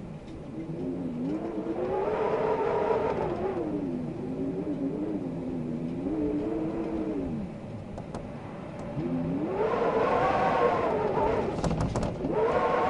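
Wind howling, a pitched moan that rises and falls in slow swells a few seconds apart, with a few faint clicks in the second half.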